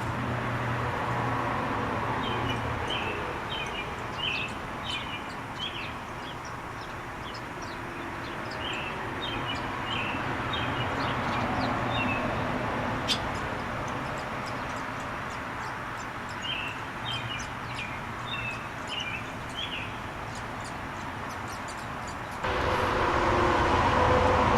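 Small birds chirping in quick clusters of short, high calls, three bouts in all, over a steady background rumble that gets louder near the end.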